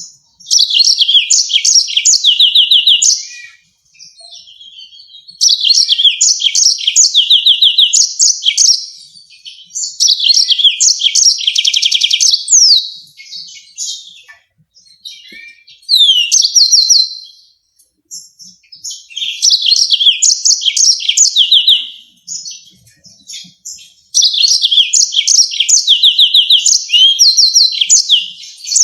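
Yellow-fronted canary singing: bouts of a few seconds of fast, high trills and rapidly repeated sharp notes, broken by short pauses.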